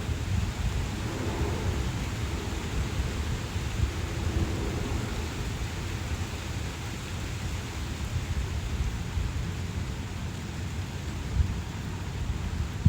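Wind buffeting the microphone: a steady, fluctuating low rumble with a faint hiss above it.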